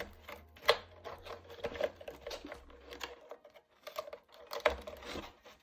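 Scattered light clicks and taps from handling an RC plane's LiPo battery and airframe as the battery is moved forward in its bay, with the louder knocks about a second in and near the end.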